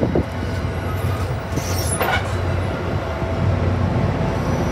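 MBTA commuter rail bilevel coaches rolling past on the rails with a steady low rumble and wheel noise, and a short sharp sound from the running gear about two seconds in.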